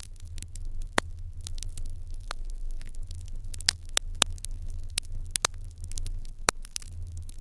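Wood fire in an irori hearth crackling, with irregular sharp pops several times a second over a steady low rumble.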